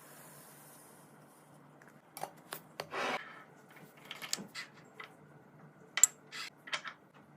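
Items being handled and put away during a fridge restock: a string of short clicks, taps and rustles. There is a brief scrape about three seconds in and a sharp click about six seconds in.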